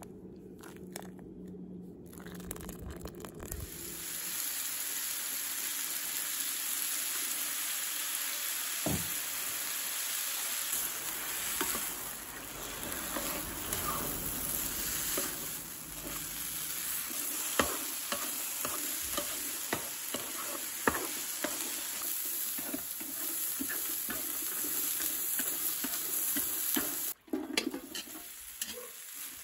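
Food sizzling in an electric skillet, starting about four seconds in. It is stirred and tossed with chopsticks that click sharply against the pan. The food is glass noodles, then wood ear mushrooms.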